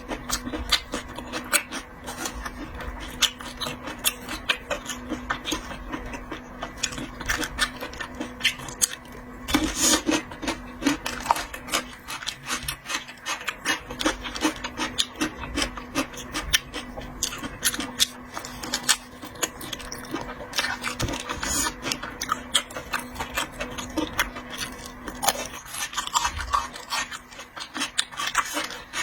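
A person eating seafood close to the microphone: a dense run of irregular chewing and smacking clicks, over a steady low hum.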